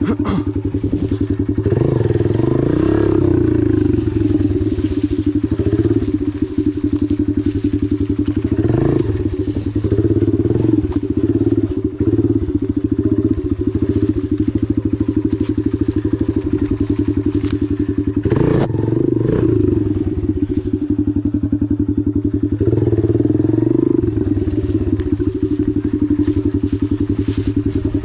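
Dirt bike engine running low and steady, blipped up in several short revs.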